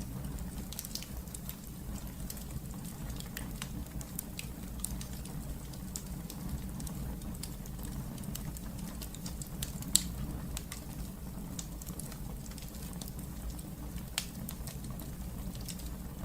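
Wood fire burning in a fireplace: a steady low rumble of flame with scattered crackles and small pops, the sharpest pop about ten seconds in.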